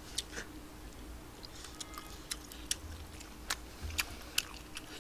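Quiet close-up chewing of tteokbokki rice cakes: scattered wet mouth clicks and smacks, over a faint steady hum.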